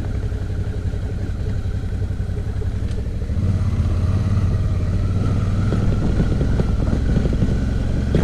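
Suzuki V-Strom motorcycle riding on a bumpy dirt road: steady engine hum with road and tyre noise. The engine grows louder about three and a half seconds in.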